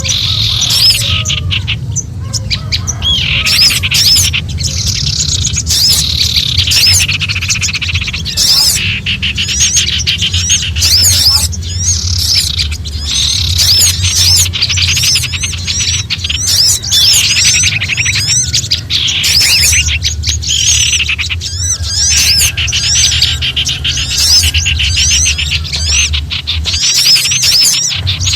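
Small songbirds giving frantic alarm and scolding calls, a dense, unbroken mix of rapid high chirps and chattering trills from several birds at once: a bird-lure recording of small birds in fright. A steady low hum runs beneath.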